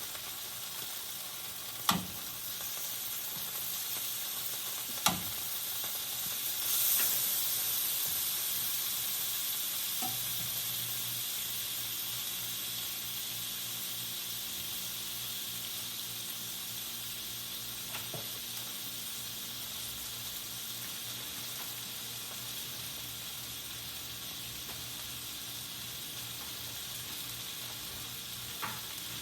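Food frying in a pan, a steady sizzle throughout. A couple of sharp knocks come about two and five seconds in, and the sizzle flares louder around seven seconds before settling back.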